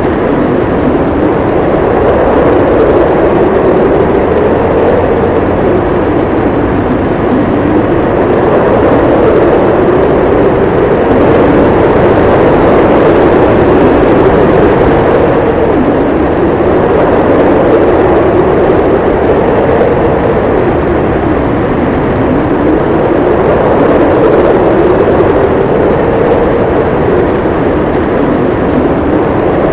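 Howling storm wind: a steady, loud rush whose low moaning pitch slowly rises and falls every few seconds.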